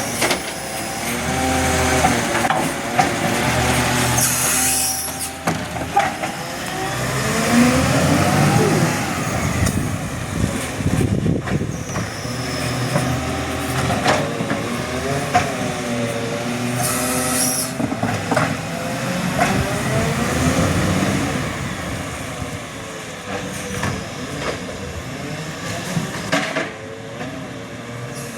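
Garbage truck's diesel engine running, its pitch wavering and rising as it works, with two short hisses of air about four seconds in and again past the midpoint.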